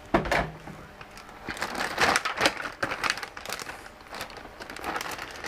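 Large plastic zip-top bag holding chicken halves in brine, crinkling and rustling irregularly as it is handled, with a sharper knock just after the start.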